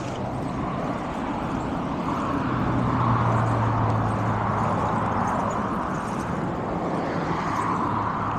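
Steady road noise heard while cycling: an even rushing hiss with a low hum of traffic, swelling for a few seconds from about two and a half seconds in, then easing.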